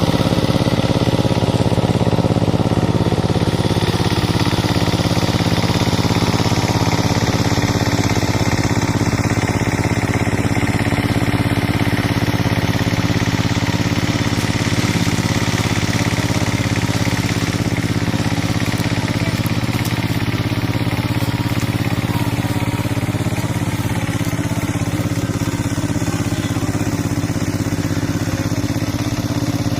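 Kamco power tiller's single-cylinder diesel engine running steadily while the tiller puddles deep mud.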